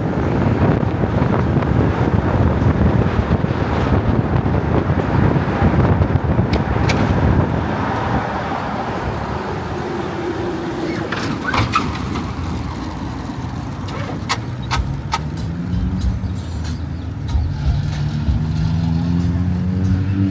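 A motor vehicle's engine running loudly with a few sharp clicks, then revving up, its pitch climbing over the last few seconds.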